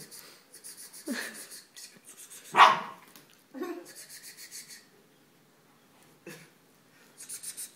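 Dachshund giving a few short barks and yaps while playing, the loudest about two and a half seconds in.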